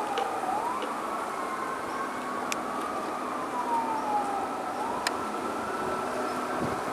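Distant emergency-vehicle siren wailing, its pitch sliding slowly down and then sweeping quickly back up twice, over a steady hum of highway traffic.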